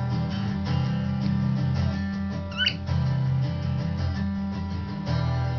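Strummed acoustic guitar music, with one short, high chirp from a cockatiel about two and a half seconds in.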